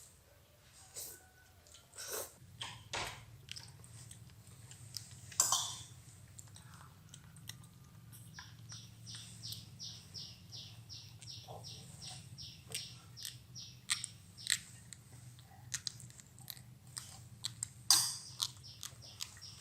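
Baby pet monkey chewing and smacking a mouthful of instant noodles: scattered wet smacks and clicks, with a stretch of steady chewing at about three chews a second in the middle.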